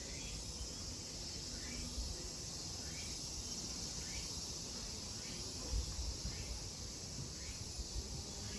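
Cicadas in a steady high-pitched drone, with a short call repeating about once a second beneath it.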